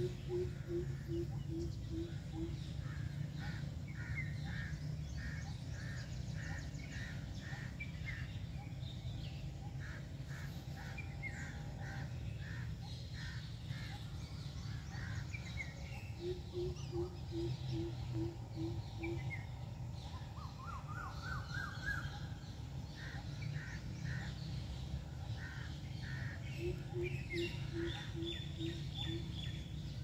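Birds calling: three runs of about eight short, low notes, at the start, near the middle and near the end, with quicker, higher chattering calls between them, over a steady low rumble.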